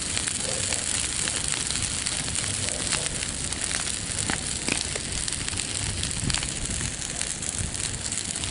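Bonfire burning: a steady rushing hiss with frequent sharp crackles and pops.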